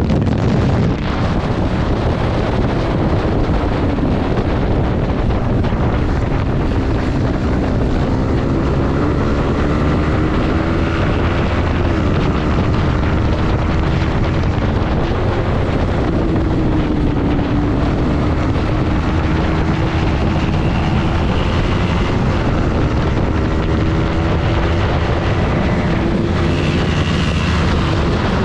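Yamaha MT-15 motorcycle's 155 cc single-cylinder engine running while riding, its pitch drifting up and down with the throttle and jumping a few times. Heavy wind noise on the microphone rushes over it throughout.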